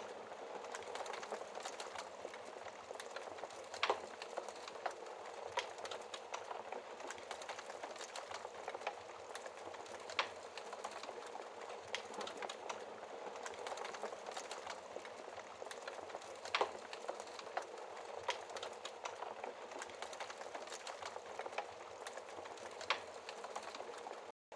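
Wood fire crackling steadily, with frequent small snaps and a louder pop every few seconds. The sound cuts out for a split second near the end.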